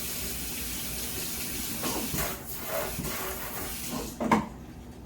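Kitchen tap running into a sink with a steady hiss. A few clunks come from about two seconds in, and a louder knock about four seconds in as the water stops.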